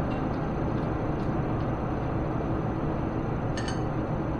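Steady low background hum with two light metallic clinks about three and a half seconds in.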